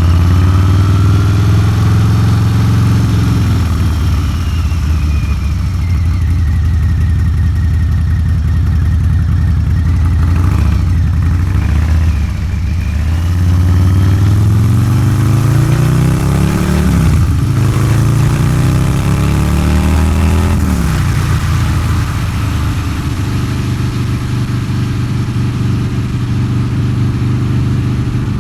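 Harley-Davidson Low Rider's 129ci V-twin running through a Two Brothers Racing exhaust on the move. It revs up and eases off, holds steady, then pulls up in pitch twice with a brief break between, before dropping back to a steady cruise for the last several seconds.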